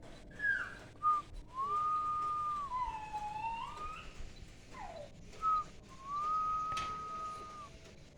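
A series of clear whistled notes. Short notes come first, then a long level note that dips lower and rises again, a falling glide, and another long level note.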